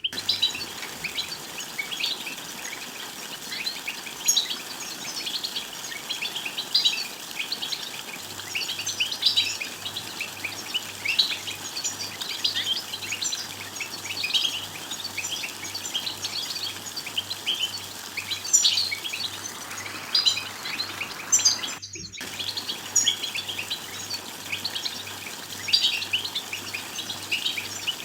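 European goldfinches twittering, a dense run of quick, high chirping calls (the 'bitbita' call used to stimulate male goldfinches to sing). The sound cuts out for a split second about three-quarters of the way through.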